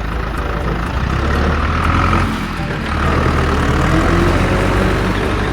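Heavy vehicle engine running steadily with a strong low rumble.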